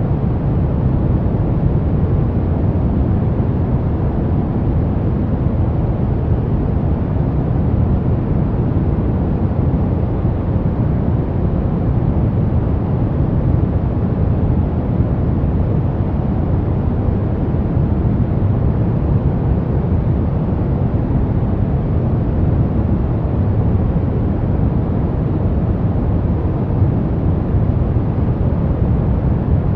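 Steady pink noise: an even, unbroken hiss weighted toward the low end, with no change in level.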